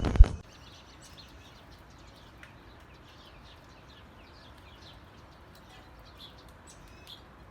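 A single sharp knock just after the start, then faint, scattered bird chirps over a low, quiet background.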